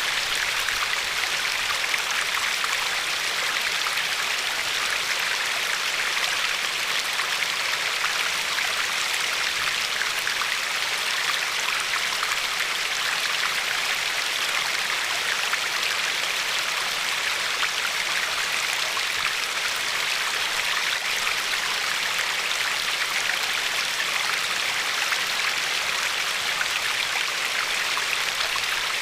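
Glacier-fed river flowing over a pebbly shore: a steady, even rush of water with fine splashing and babbling.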